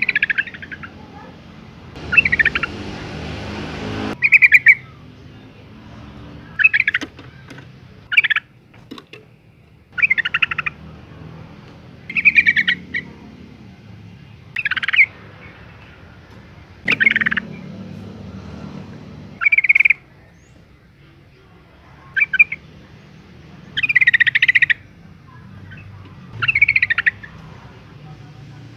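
Yellow-vented bulbul calling: about a dozen short, bubbly phrases, one every two seconds or so. The uploader presents it as a female's call, used as a lure to provoke males into singing.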